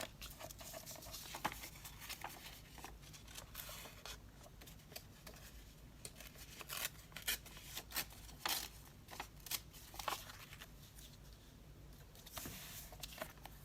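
Paper being handled and cut at a craft table: scattered crisp rustles and snips, with a quick run of sharp snips in the middle.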